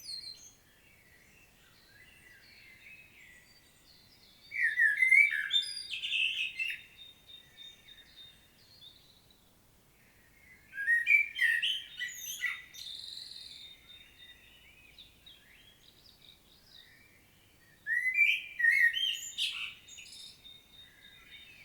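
Common blackbird singing: three loud warbled song phrases a few seconds apart, each fluty and ending in high twittering notes, with pauses between.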